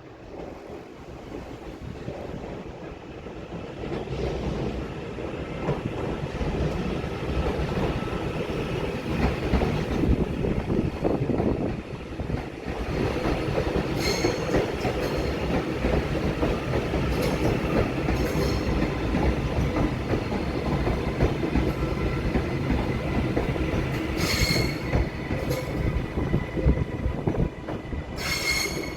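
A train passing, its wheels rumbling and clacking over the rail joints, with brief high wheel squeals a few times near the middle and the end.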